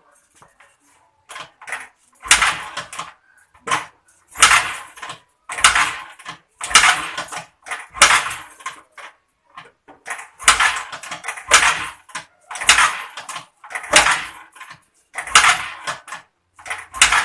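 Kick-starter of a Suzuki Skydrive 125 FI scooter worked over and over, about ten strokes roughly one a second with a short pause midway, each a thump and a rush of cranking noise. The engine does not fire: the battery is flat and the fuel may have gone stale after six months standing.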